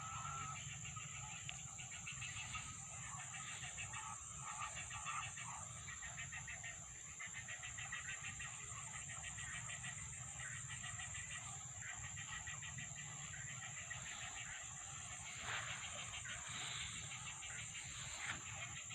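A large flock of birds calling and chattering continuously, many voices overlapping, as they gather in a tree to roost, over a steady high-pitched hum.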